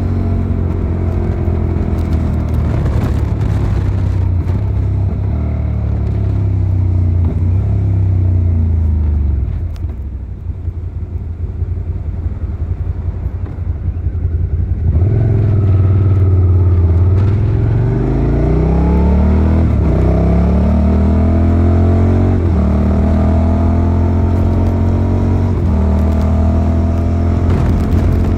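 Suzuki SV650's V-twin engine running under way. About a third of the way in the revs fall off and it goes quieter for a few seconds as the throttle is closed. Around the halfway mark it gets louder and the revs climb steeply, then settle into steady running for the rest.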